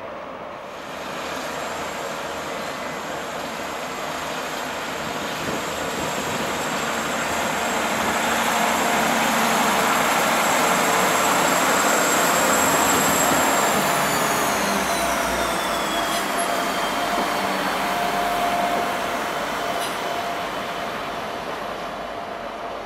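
A Transport for Wales diesel multiple unit running past close by on the tracks: the train noise builds to its loudest about halfway through, then fades as it pulls away. High whining tones fall in pitch a little after the loudest point.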